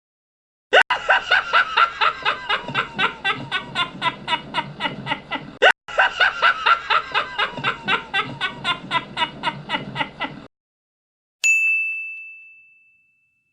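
A character's rapid, rhythmic laugh, about five pulses a second, played twice in a row for about five seconds each. It is followed by a single bell ding that rings out and fades.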